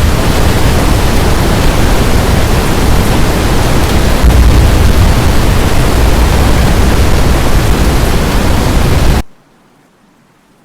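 Strong wind blasting across the microphone: a loud, steady rush heaviest in the low end that cuts off suddenly near the end, leaving only a faint hiss.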